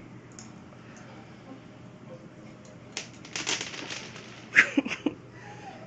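A baby handling dry dog food: a short crackly rattle of kibble about three seconds in, then a brief high vocal sound from the baby near the end.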